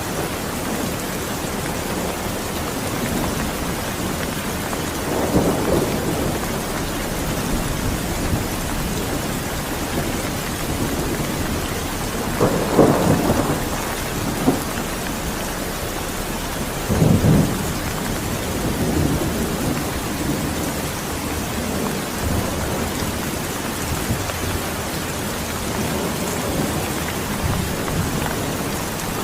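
Steady rain falling, with low rumbles of thunder rolling in several times, the strongest about halfway through and again a few seconds later.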